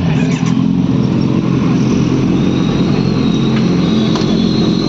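Kawasaki Z900's inline-four engine idling steadily and loudly through an aftermarket full-system exhaust.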